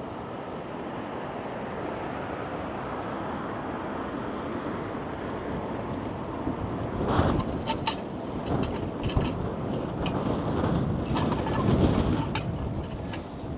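Gusty wind and passing road traffic on a city street. Louder, crackling stretches come about halfway through and again near the end.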